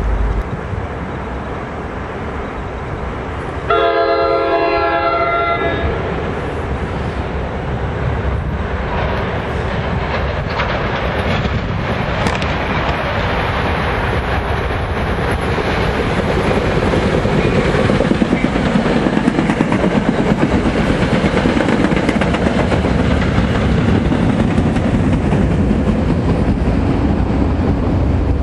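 NJ Transit ALP-45DP dual-mode locomotive approaching with its train: a multi-note horn chord sounds for about two seconds a few seconds in, then the rumble and clatter of the train grow steadily louder from about halfway through.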